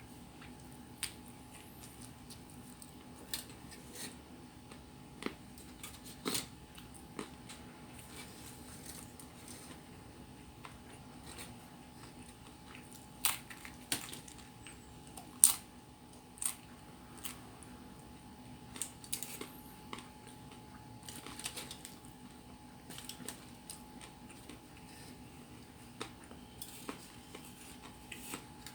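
Close-up eating sounds of a person chewing and biting into pizza: scattered wet clicks and small smacks at irregular intervals, the sharpest about fifteen seconds in. A faint steady hum runs underneath.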